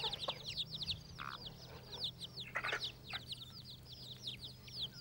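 A group of newly hatched chicks peeping without a break: many short, high peeps, each falling in pitch, several a second and overlapping, with a few lower calls mixed in.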